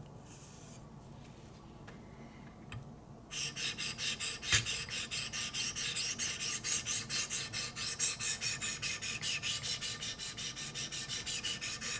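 Wicked Edge 800-grit diamond stones stroked lightly along the S90V steel edge of a Benchmade Altitude knife clamped in the guided sharpener. The rasping strokes start about a third of the way in and go on quick and even, several a second. A single click comes just before they start, and a sharp tick follows soon after.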